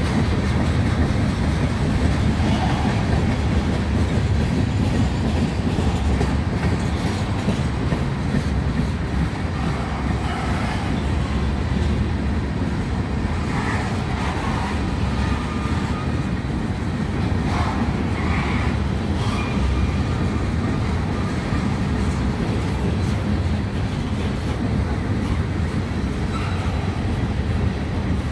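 Freight cars of a trash train, carrying waste containers on flatcars, rolling past at steady speed. The steel wheels rumble and clatter on the rails without a break.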